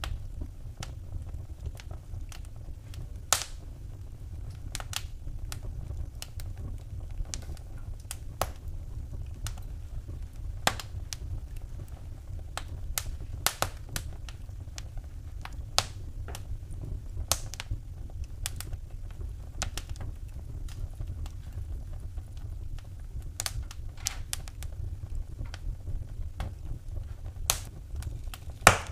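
Wood fire in a fireplace crackling: irregular sharp pops and snaps over a steady low rumble, with a louder pop about three seconds in and the loudest one near the end.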